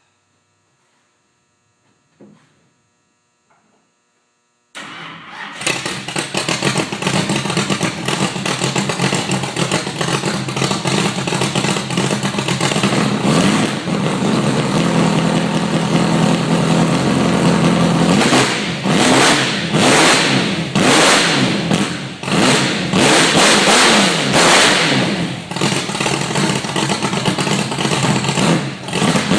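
NASCAR truck's 358-cubic-inch V8 racing engine: near silence at first, then the engine comes in suddenly about five seconds in and runs loud and steady at idle. From about halfway on it is revved in a series of quick throttle blips, roughly one a second.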